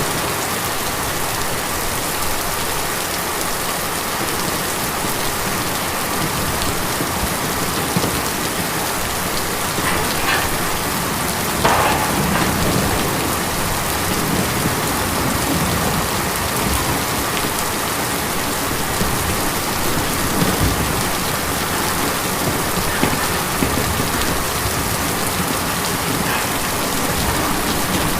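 Steady rain drumming on a tin roof, an even patter with a few louder single drops striking now and then.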